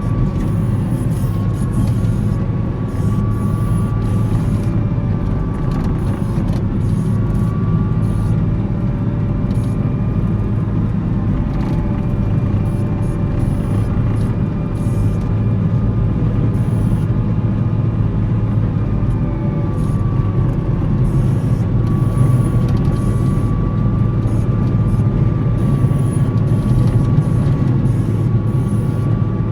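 Volvo L70C wheel loader's diesel engine running steadily under load while plowing snow, with a thin whine above the low rumble that wavers slightly in pitch.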